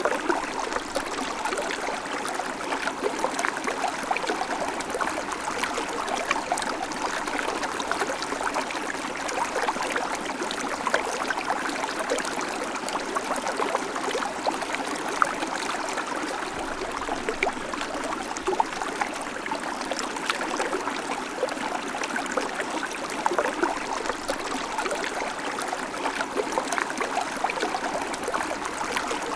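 Babbling creek: shallow water running and trickling over stones, a steady rushing with fine splashy bubbling throughout.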